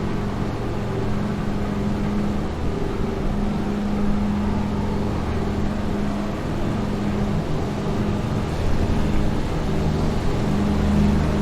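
Twin radial piston engines of a Douglas DC-3 droning steadily in flight. A low hum tone in the drone swells and fades every second or two.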